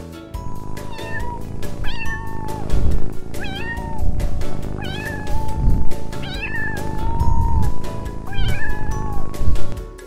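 Domestic cat meowing repeatedly, a series of short rising-and-falling meows, over background music with a steady beat.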